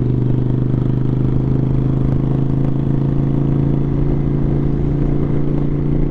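Motorcycle engine running at a steady cruise, its pitch holding level, with low wind rumble over the rider's microphone.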